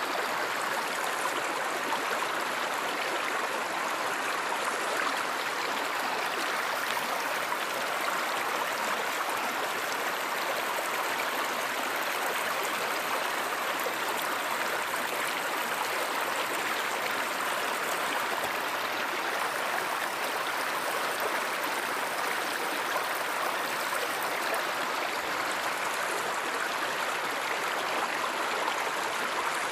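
Steady rushing of a flowing river or stream, an even unbroken water noise with no pauses or changes.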